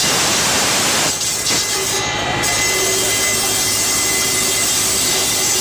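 Tractor-driven saw machine (aara) running loud and steady, a dense mechanical noise with a constant hum under it.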